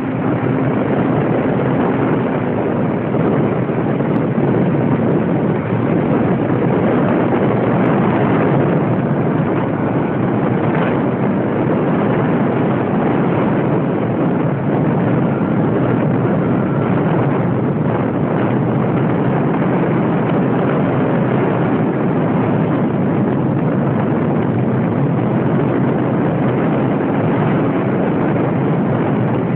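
Radio-controlled model airplane in flight, its motor and propeller running steadily under a loud, even rushing noise.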